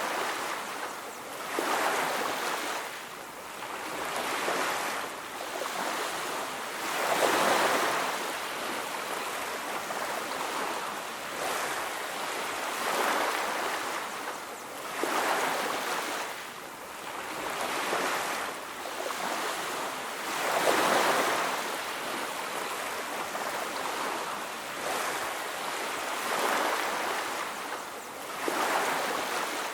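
Ocean surf: waves breaking and washing on a beach, swelling and falling back every two to three seconds.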